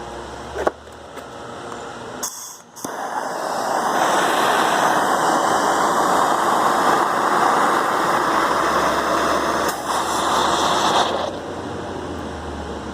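Exothermic weld charge burning in its mould: a loud, even hissing rush that builds over about a second, runs for about seven seconds and then cuts off. A sharp click comes shortly before it.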